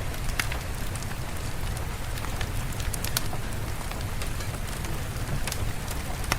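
Steady rain falling, with a low rumble underneath and scattered sharp ticks a few times a second.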